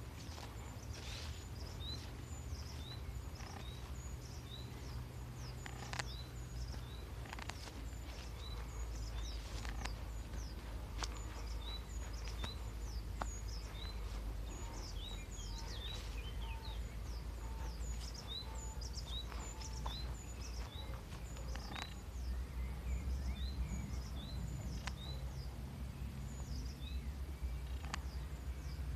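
Birds chirping, many short high calls repeating all through, over a steady low rumble.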